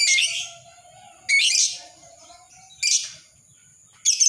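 Lovebird giving four short, shrill chirping calls about a second or more apart.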